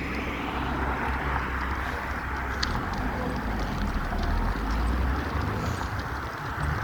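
Steady wind rushing over the microphone of a bicycle being ridden, with a low rumble underneath.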